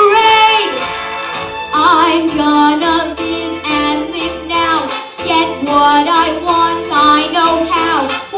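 A female vocalist singing a Broadway show tune over musical accompaniment, with held, wavering notes and rhythmic phrases.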